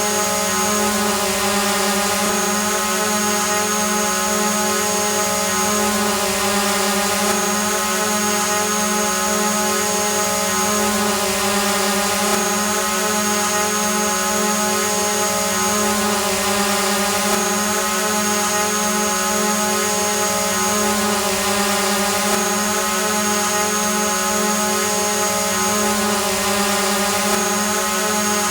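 Drone hovering: a steady buzzing whine from its propellers and motors, with a high thin tone on top that drops out briefly every five seconds or so.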